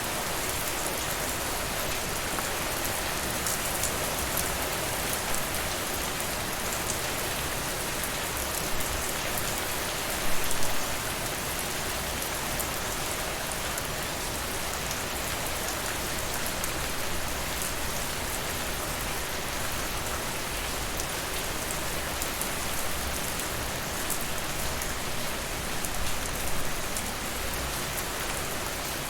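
Steady rain falling, with scattered small crackles from a wood fire in a fireplace. There are two brief louder patches, about ten seconds in and again near the end.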